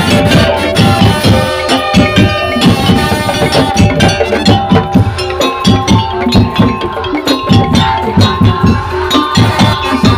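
Musik daul, the Madurese percussion ensemble, playing live: a fast, dense rhythm of drums and wood-block strokes with a steady melodic line over it.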